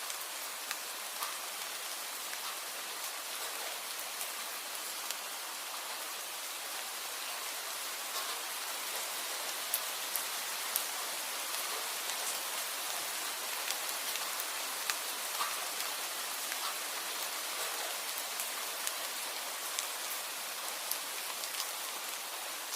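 Steady rain falling, with scattered sharp drop ticks landing throughout.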